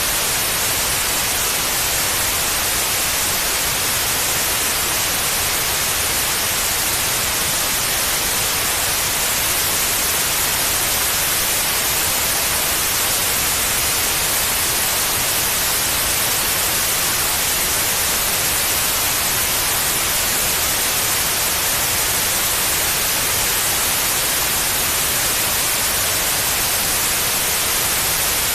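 Steady, unchanging white noise: an even hiss, brightest in the upper range.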